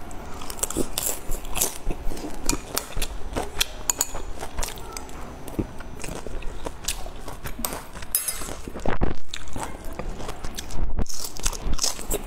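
Close-miked chewing of a crispy pan-fried dumpling: crunching bites and wet mouth clicks, with two louder spells of crunching, one about three-quarters through and one near the end.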